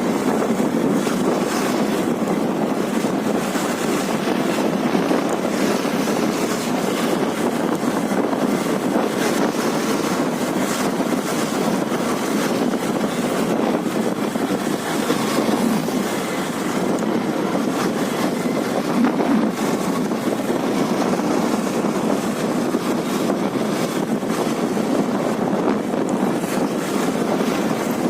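Steady wind rush on the helmet microphone of a moving Karizma R motorcycle, with road and engine noise mixed in beneath it.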